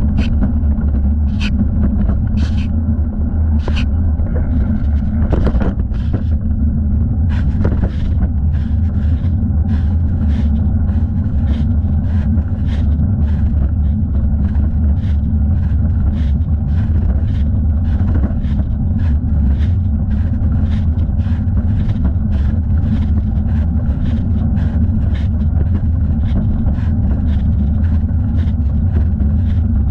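Steady wind and road rumble on a thigh-mounted camera during a bicycle ride. From about eight seconds in, light ticks come regularly, about two a second.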